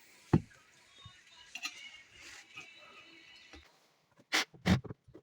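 A sharp knock about a third of a second in, faint scattered ticks in between, then a quick run of four or five sharp clicks near the end.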